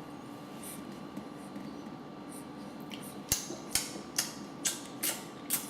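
Steady low room hum, then from about three seconds in a run of sharp light taps or knocks, about two a second, as of something hard struck on a tray or dish.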